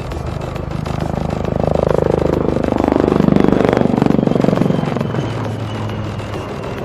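HAL Light Combat Helicopter Prachand flying past, its rotors and turbine engines swelling to a peak about three seconds in. The pitch drops as it passes, then the sound fades.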